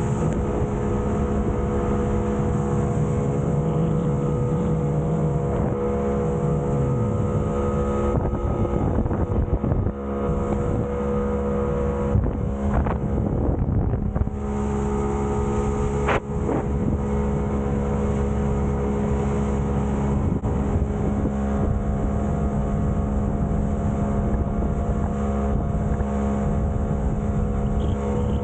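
Outboard motor running steadily as a small boat travels under way, with wind on the microphone and a few knocks around the middle.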